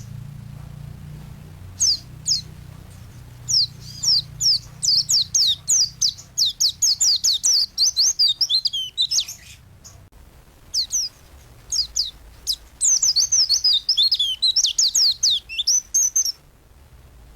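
Pleci (white-eye) singing in a full, energetic 'gacor' run: long strings of quick, high, downward-slurred chirps, stopping briefly about halfway through and then resuming before breaking off near the end.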